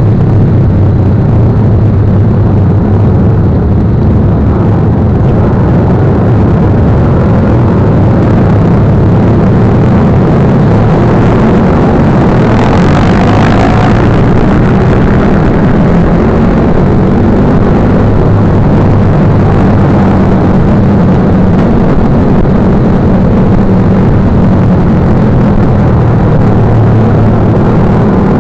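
Motorcycle engine running steadily while riding, with a brief louder rush of hiss about halfway through.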